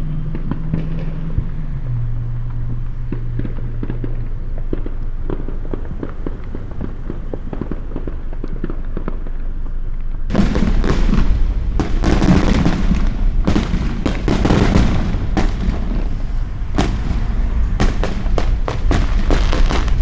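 Fireworks going off all around: a steady scatter of pops and crackles. About halfway through, much louder and denser bursts and booms set in and keep going.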